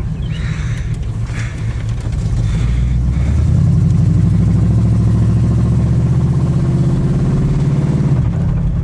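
A 1974 Chevy Nova's carbureted 350 small-block V8 under way on the road, getting louder about two and a half seconds in and rising slowly in pitch as the car accelerates, then easing off near the end.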